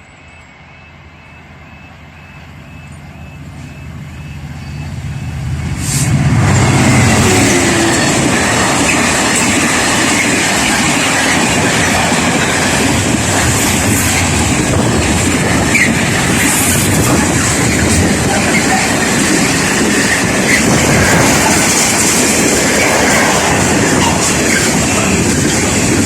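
A train approaching, growing steadily louder over about six seconds, then passing close by with a loud, continuous rush and rattle of wheels on the rails.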